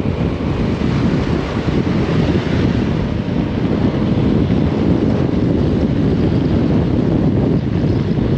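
Loud, steady wind buffeting the microphone on a motorbike moving at road speed.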